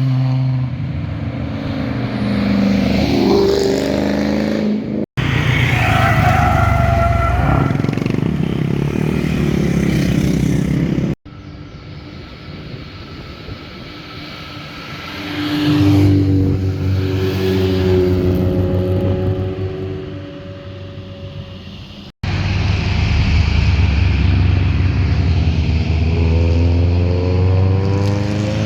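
Car engines and exhausts at speed, heard in four separate clips joined by hard cuts. One car swells loud about halfway through as it passes and then fades away. Near the end another engine climbs in pitch as it revs up.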